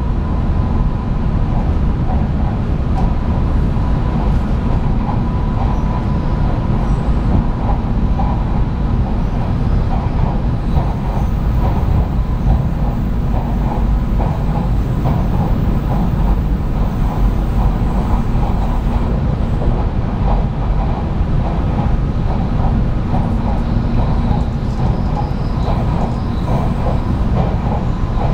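700 Series 7000 'Rail Star' Shinkansen train running at speed, heard from inside the car: a steady low rumble with a constant hum, and rapid light clicking from the wheels and track that comes and goes.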